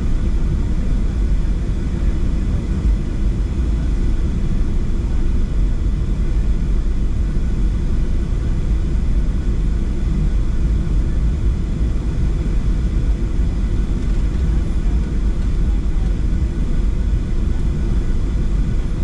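Steady low rumble inside the cabin of a Boeing 737-700 as its CFM56-7B engines run at idle on the ground before takeoff.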